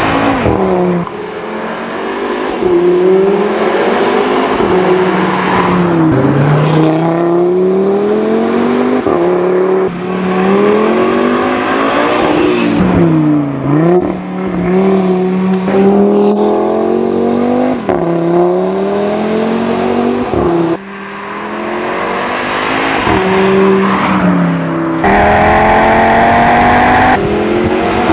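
Audi RS3's turbocharged 2.5-litre five-cylinder engine under hard acceleration, its pitch climbing through each gear and dropping sharply at every upshift, over and over, with a few abrupt cuts between runs.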